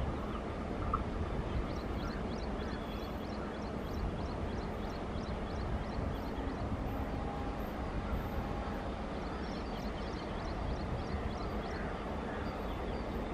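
Steady low rumble of an express train hauled by a WAP-4 electric locomotive as it approaches, with repeated high chirps about twice a second over it.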